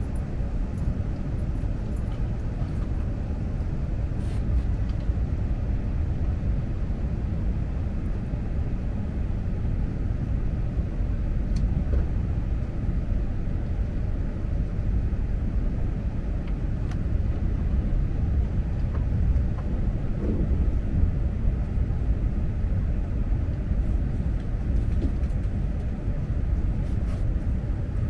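Steady low rumble of an Akita Shinkansen Series E6 Komachi train running at speed, heard inside the passenger cabin: wheels on rail and running gear, with a few faint ticks. It is running on the conventional-line section, where its speed is limited to 130 km/h.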